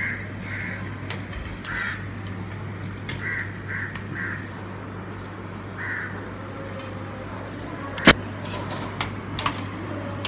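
A bird calling in about seven short calls, some in quick pairs, over the first six seconds, over a steady low hum. A single sharp clink of a metal spoon on a plate comes about eight seconds in, followed by a few lighter clicks.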